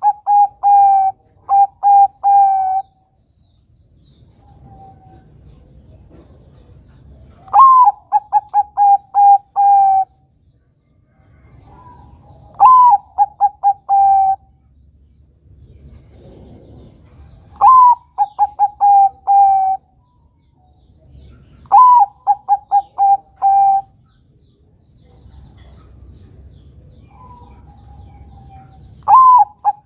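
Zebra dove (Bangkok perkutut) singing its cooing song. Phrases repeat every four to five seconds, each a loud up-swept opening note followed by a quick run of four to six short coos.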